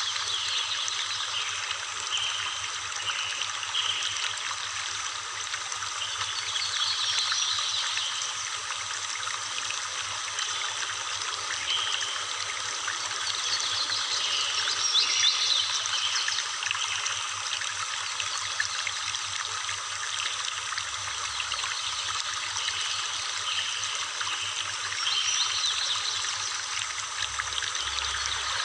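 Water of a horsetail waterfall falling and splashing: a steady, fairly high-pitched rush of moving water.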